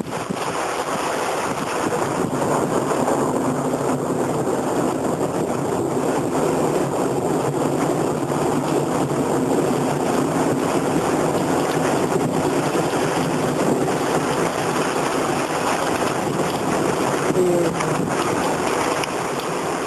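Strong squall-line wind blowing and gusting, buffeting the microphone with a dense, steady rushing noise that grows a little louder about two seconds in.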